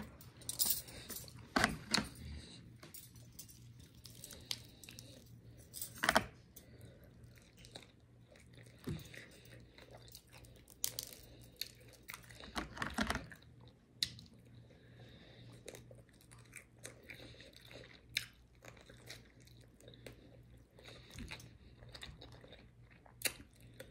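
Close-up eating of fried chicken wings: chewing and biting, with irregular crunches and mouth clicks.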